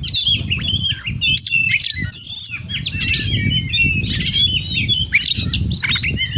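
Oriental magpie-robin (kacer) singing a rapid, varied run of whistles, chirps and trills, full of mimicked songs of other birds, over a low rumbling background noise.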